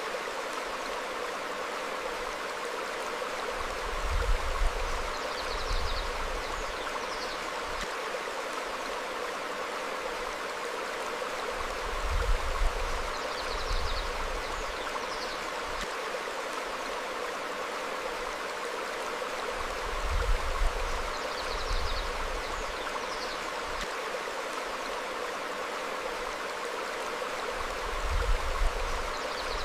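Stream flowing steadily over rocks, with faint short bird chirps now and then. Low rumbling swells come about every eight seconds.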